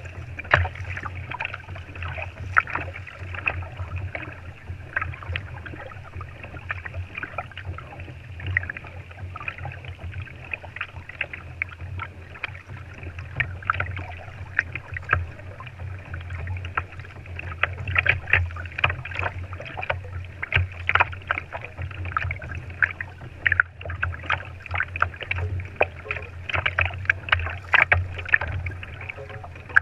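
A kayak on the water: water sloshing and slapping against the hull, with many small irregular splashes and knocks over a steady low rumble.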